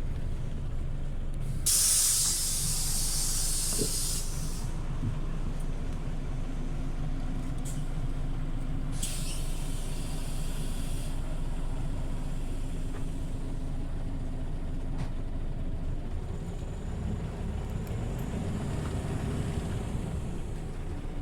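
Scania OmniLink CL94UB city bus running with its engine rumbling low, while its compressed-air system lets out two hisses: a loud one a couple of seconds in, lasting about three seconds, and a shorter, weaker one about halfway through.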